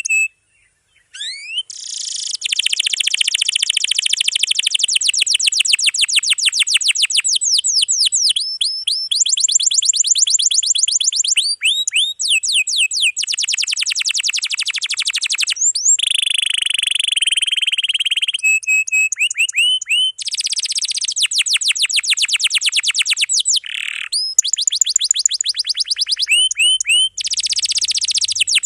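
Domestic canary singing a long, dense song of rapid rolled trills. Each phrase is a fast run of the same repeated note, changing to a new phrase every second or two with almost no pause, after a brief break about a second in.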